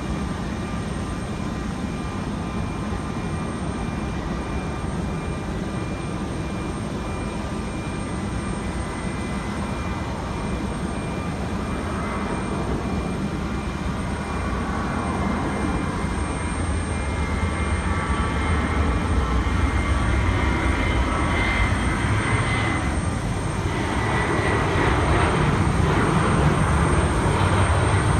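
Airplane engines at takeoff power: a steady rushing drone with a thin whine on top, growing louder through the second half.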